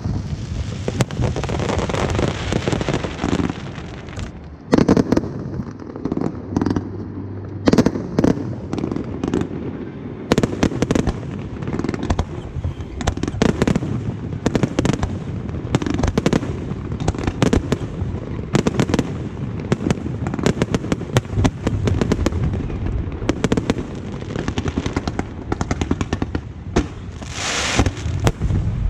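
Aerial fireworks exploding in a dense barrage of irregular bangs and crackles over a continuous rumble, with a hiss about a second in and another near the end.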